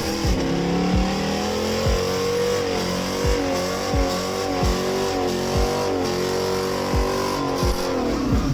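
A car engine held at high revs, its pitch climbing at the start, then wavering up and down before dropping near the end. Low thumps come about every two-thirds of a second.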